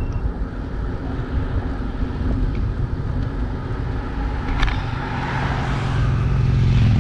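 Traffic noise along a road heard while cycling: a steady low rush, with a motor vehicle's drone growing louder near the end as it approaches.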